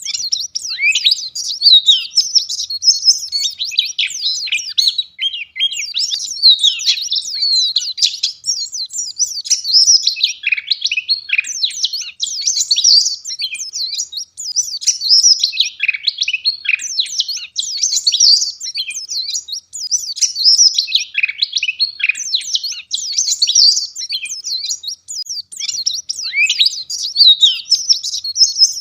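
White-eye (pleci) singing a fast, high-pitched twittering song in dense, almost unbroken phrases.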